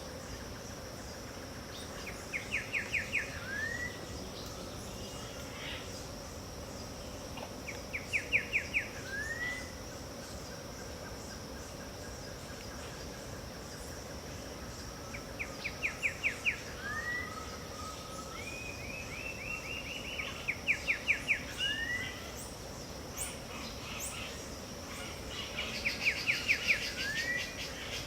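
A bird singing the same short phrase five times, about every six seconds: a fast run of about eight notes, then a single rising whistled note. Behind it runs a steady high insect drone of dawn wetland ambience.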